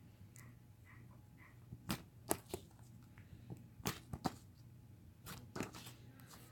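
Sticky cloud cream slime being squished and pulled by hand, giving a scatter of sharp little pops and clicks, starting about two seconds in.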